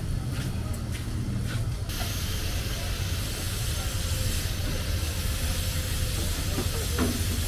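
Mutton liver sizzling on a hot tawa; the hiss of the frying jumps suddenly louder about two seconds in and then stays steady. A steady low hum runs underneath.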